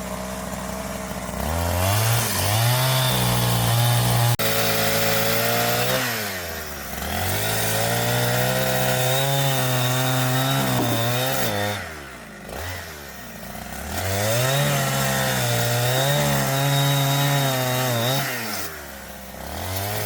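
Two-stroke chainsaw revved up to full speed three times, each time held high for several seconds while cutting through wood, then dropped back toward idle between cuts.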